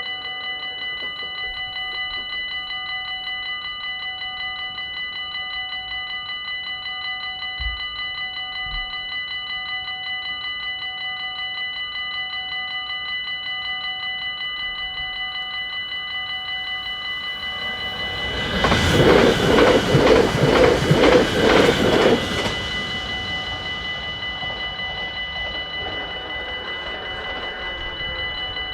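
Dutch level-crossing warning bells ringing in a fast, steady pulse. About 18 seconds in, a train passes for about four seconds, the loudest sound, and then the bells ring on.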